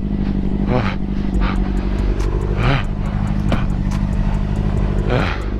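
Motorcycle engine running at a steady, unchanging pitch, with several short noisy whooshes a second or so apart.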